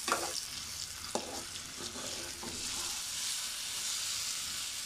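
A thick mix of soaked haleem grains and lentils with fried chicken sizzling in hot oil as it is stirred with a perforated metal spatula. The spatula scrapes against the pan a few times.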